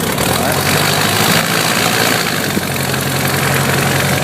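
Cessna 150's four-cylinder air-cooled Continental O-200 engine idling steadily, just restarted after a stall. Its note shifts slightly about two-thirds of the way in.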